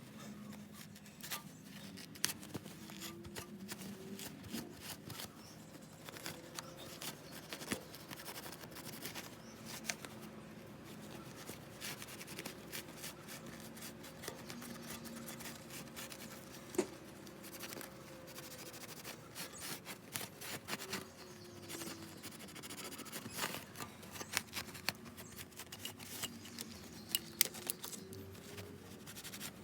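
Irregular scraping, rubbing and sharp clicks of hand work with tools and parts on an engine.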